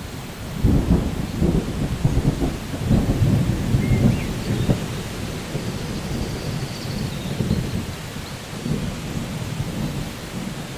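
Steady rain with rolling thunder rumbling underneath, heaviest in the first half and easing off after about five seconds.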